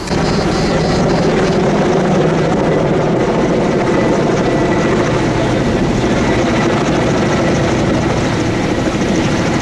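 Helicopter rotor and engine noise, loud and steady, starting abruptly. It is typical of a firefighting helicopter working close by.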